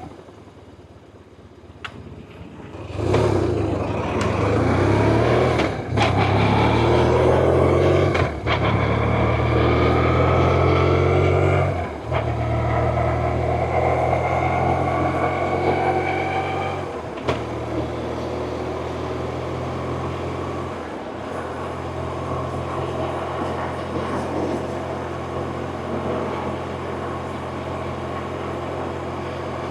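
BMW R1100RT motorcycle's boxer-twin engine pulling away about three seconds in and accelerating up through the gears, its pitch rising in each gear with a brief drop at every shift, then settling to a steady, quieter cruise from about two-thirds of the way in.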